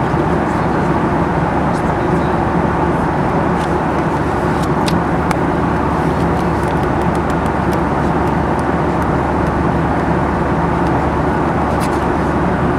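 Steady cabin noise of a Boeing 737-800 in flight: an even rush of engine and airflow with a low hum, and a few faint clicks.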